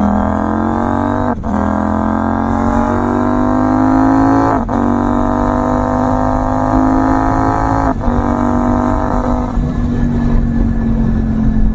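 CFMoto 800MT Touring's 799cc parallel-twin engine pulling under hard acceleration, climbing in pitch through the gears. It is cut by three clean quick-shifter upshifts about one and a half, four and a half and eight seconds in. Near the end the throttle eases and the engine note settles.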